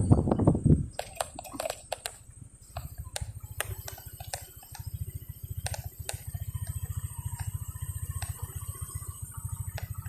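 Motorcycle engine idling with a fast, even low putter, with scattered sharp clicks over it. A louder low rumble dies away in the first second.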